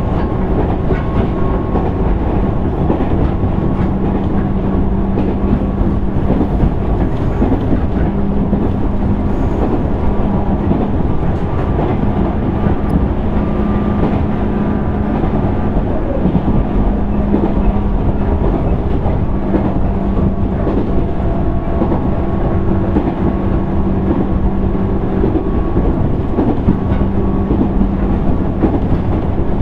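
Running sound inside a JR East 205 series 600-number electric train car (motor car MoHa 204-604) travelling at speed: a steady rumble of wheels on rail, with a low hum that comes and goes.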